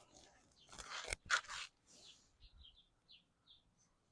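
Faint rustling and crunching, with one sharp click, about a second in. Then a small bird chirps several times in quick succession.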